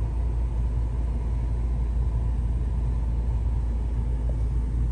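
Steady low rumble of a MINI Countryman John Cooper Works' engine idling, heard from inside the cabin.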